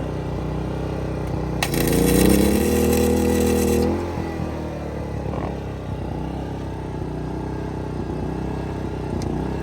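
A flux-core arc welder laying a bead for about two seconds, starting a little over a second and a half in and cutting off sharply, with a loud crackling hiss and a rising hum. A vehicle engine idles steadily throughout.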